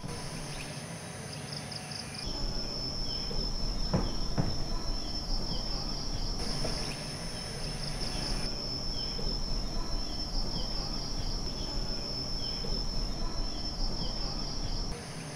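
Rainforest insects calling in a steady, high-pitched drone with a pulsing edge, the chorus changing abruptly at several points. A single knock sounds about four seconds in.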